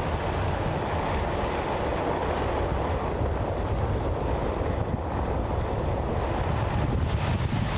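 Steady low rumble and rushing noise of a two-wheel-drive pickup truck driving through deep snow, with a short swell of hiss near the end.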